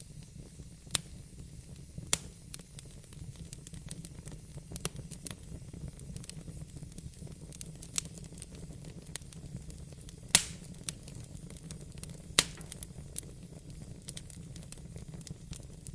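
Wood fire crackling in a fireplace: a steady low rumble of flames with many scattered small snaps and a few sharper pops, the loudest about ten seconds in.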